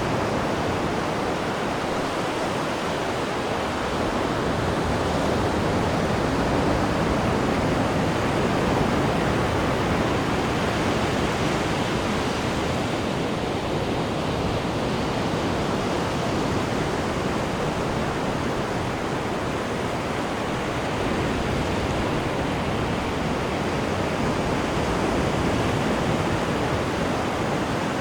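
Sea water rushing and churning behind a cruise ship's stern: a steady wash of wake and waves with slow, gentle swells in loudness.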